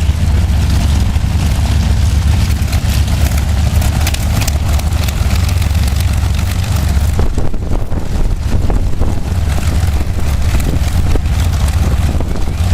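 Vintage piston-engine warbird running, a steady, loud, low rumble.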